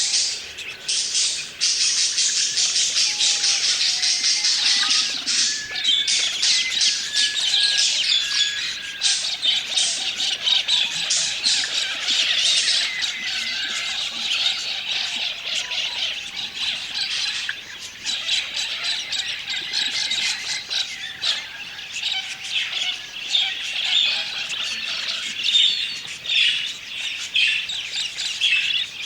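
A flock of budgerigars chattering: dense, continuous high chirping and warbling from many birds at once, somewhat quieter in the second half.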